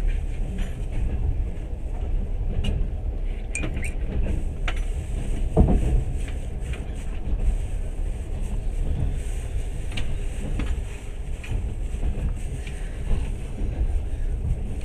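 Passenger train running along the track, heard from inside the carriage: a steady low rumble with scattered clicks and knocks, the loudest knock about five and a half seconds in.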